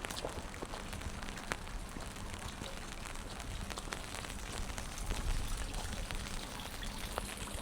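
Steady rain falling on wet pavement: a continuous hiss dotted with sharp drip ticks, over a low rumble that swells about five seconds in.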